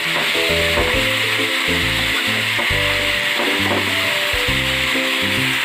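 Mutton pieces, onions and spice powders sizzling in hot oil in a nonstick frying pan while being stirred with a spatula, a steady hiss as the spices are fried into the meat.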